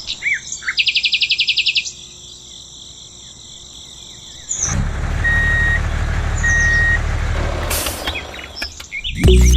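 Crickets keep up a steady high drone, with a few bird chirps and a fast pulsing trill early on. About halfway a vehicle engine starts a low steady rumble, and two steady beeps sound over it.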